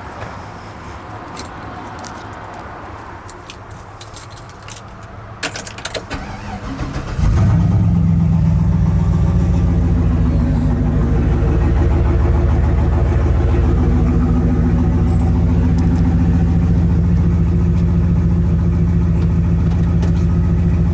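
A few keys and clicks, then about seven seconds in the turbocharged GMC Sierra's engine starts and settles into a loud, steady idle. The engine is running on a freshly fitted Huron Speed turbo kit that is still being tuned.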